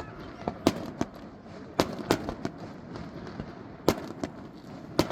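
Fireworks bursting: a string of about six sharp bangs at irregular intervals, the loudest near the middle and near the end.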